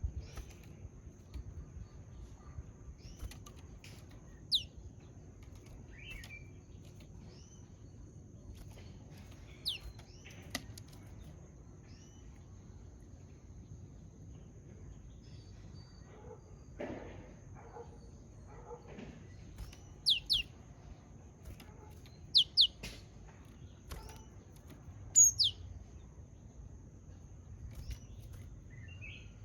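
Japanese tit giving short, sharp calls that sweep downward in pitch, scattered singly and in quick pairs, louder and more frequent in the second half. A brief rustling flutter comes about halfway through.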